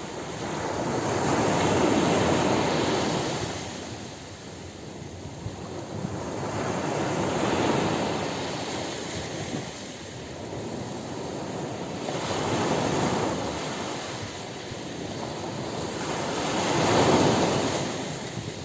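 Ocean surf breaking on a beach: four waves wash in and recede, each swelling to a peak and fading over several seconds, the loudest near the end.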